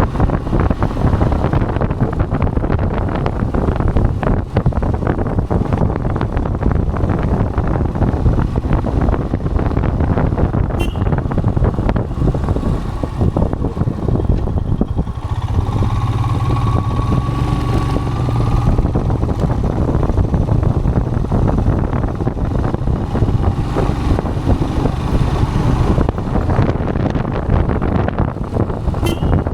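Royal Enfield Himalayan motorcycle engine running steadily under way, with wind noise on the microphone. A steadier tone rises out of it for a couple of seconds around the middle.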